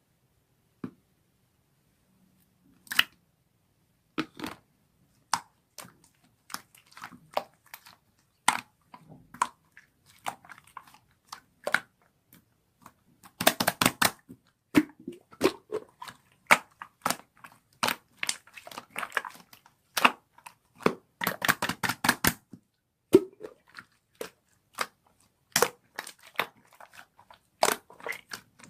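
Irregular sharp clicks and crackles, close up, like something being crinkled or crushed by hand. They begin after a few quiet seconds, with two dense runs of rapid crackling about a third and three quarters of the way through.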